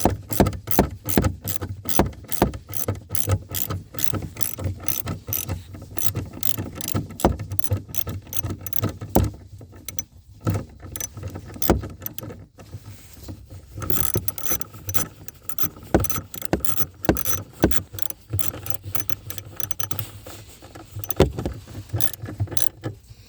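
Hand socket ratchet clicking in rapid runs as a nut is run down, with a couple of short breaks near the middle.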